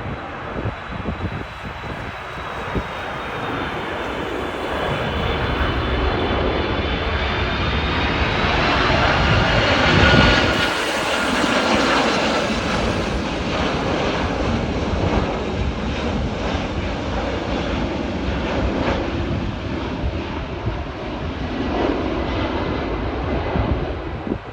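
Jet engines of a Turkish Airlines airliner on final approach passing low overhead: a rumble with high whining tones that grows to its loudest about ten seconds in, then slowly fades.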